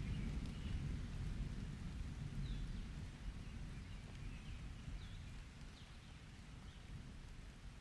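A low roll of distant thunder dying away under light rain, with faint short bird chirps.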